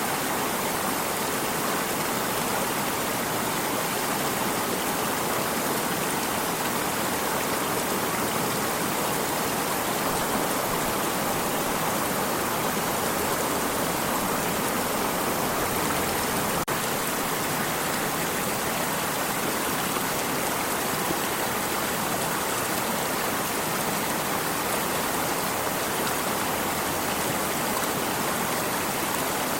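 Stream water running, a steady even rushing with no change.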